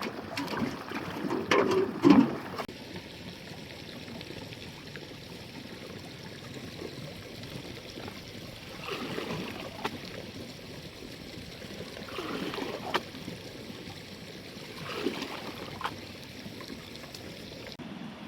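Steady trickle of running water, with louder irregular sounds in the first couple of seconds and a few brief swells and sharp clicks later on.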